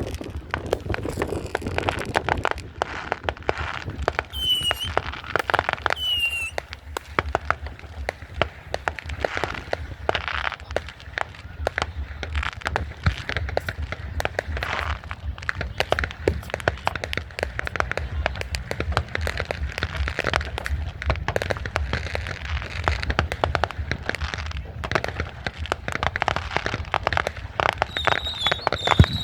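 Fireworks and firecrackers going off without a break, a dense run of pops and crackles with a few short whistles. Crowd voices run underneath.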